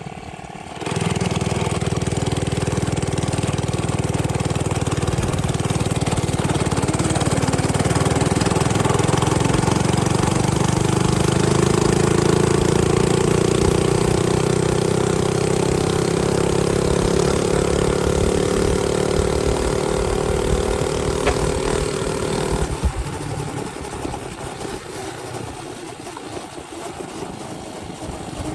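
Minibike's small engine running under way, opened up about a second in; its pitch climbs slowly, then drops to a lower, quieter note several seconds before the end as the throttle is eased.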